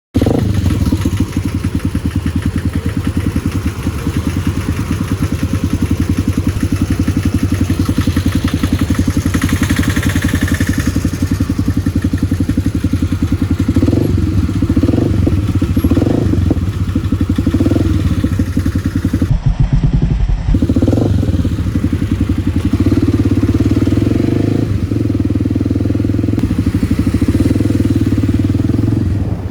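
Kawasaki D-Tracker 250's single-cylinder four-stroke engine running steadily while riding. The engine note shifts several times about halfway through.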